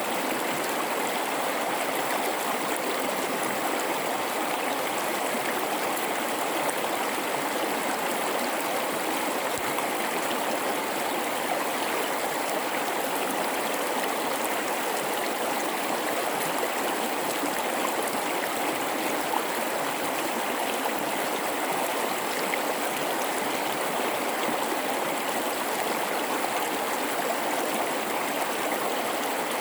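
River water rushing and babbling over rocks in a gorge, a steady, unbroken flow.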